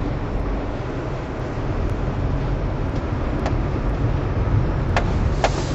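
Four-wheel-drive vehicle driving on an unplowed, snow-covered road: a steady low engine and road rumble, with a few sharp clicks in the second half.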